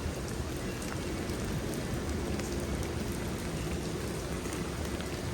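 Steady rain falling and pattering on surfaces, with scattered faint drop ticks and a faint low hum beneath.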